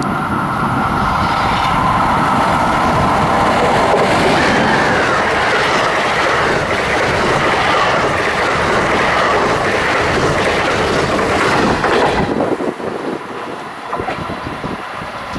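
A train passing close by, its wheels clattering over the rails, loud and steady until about twelve seconds in, when the sound drops away as it goes past.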